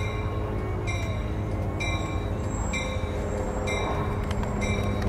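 Caltrain commuter train pulling into the station, its warning bell ringing about once a second over a steady low diesel rumble.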